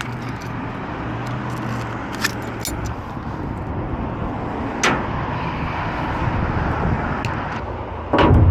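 Steady engine-like rumble of a vehicle running, with a few sharp metallic clicks. Near the end, loud knocking starts.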